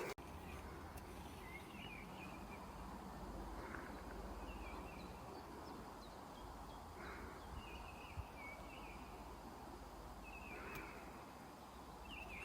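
Faint bird chirps and short twitters, heard now and then over a low wind rumble on the microphone.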